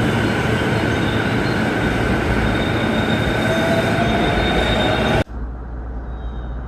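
Kawagoe Line electric train running, a loud rumble with thin high whines and one whine rising in pitch in the last seconds. About five seconds in it cuts off abruptly to a much quieter low rumble.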